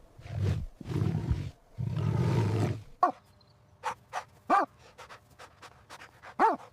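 A big cat growling in three long, rough bursts, followed by a run of short clicks and a couple of brief calls that rise and fall in pitch.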